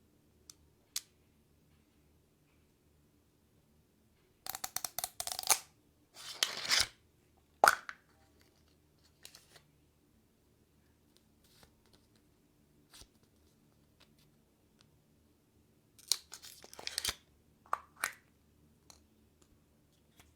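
Plastic toy-capsule packaging being torn open in two short spells of rapid crackly tearing, with a few sharp plastic clicks between them.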